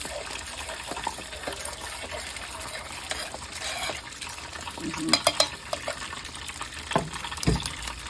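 Battered chicken wings deep-frying in hot oil, a steady bubbling hiss, with a few clicks and knocks about five and seven seconds in.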